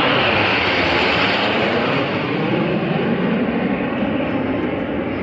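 Jet engine noise from the Snowbirds' CT-114 Tutor jets flying by: a steady rushing noise that gradually fades as the aircraft move away.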